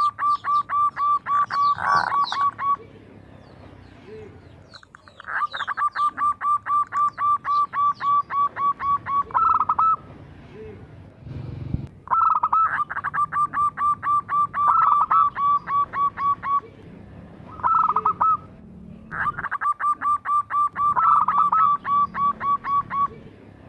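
Zebra dove giving rapid staccato call series, about seven clipped notes a second. The calls come in four bouts of three to five seconds each, with short pauses between them.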